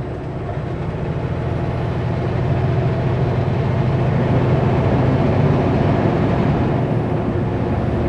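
Kenworth W900L semi truck hauling a loaded Super B trailer set, its diesel engine droning steadily with road noise. The drone grows louder over the first four seconds or so, then holds.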